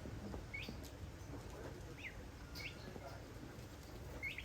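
A young chick peeping: short, sharply rising peeps about once a second.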